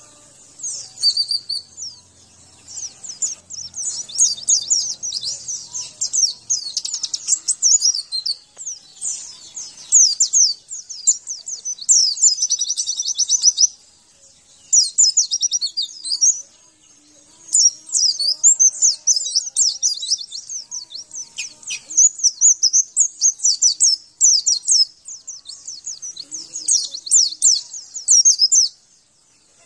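A white-eye (pleci) singing a fast, high-pitched twittering song in long runs of rapid notes, broken by a few short pauses.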